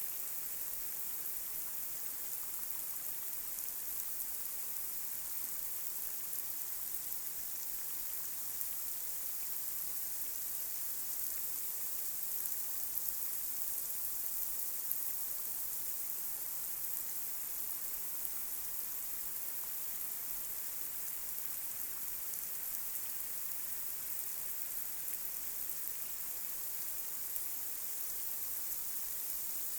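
Light rain falling on a street: a steady high hiss with faint scattered ticks of drops.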